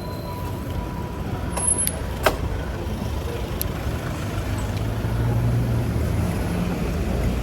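City road traffic heard from a bicycle: steady motor-vehicle noise, with a larger vehicle's engine hum swelling around the middle. A short high bicycle-bell ring comes about one and a half seconds in, followed by a sharp click.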